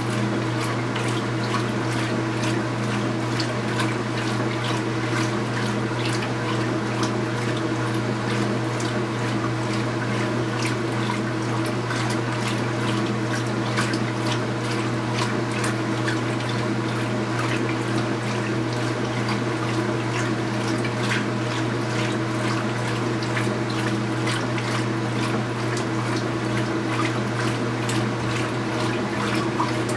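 Speed Queen 8 Series top-load washing machine running mid-cycle: a steady motor hum under continuous water sloshing and splashing.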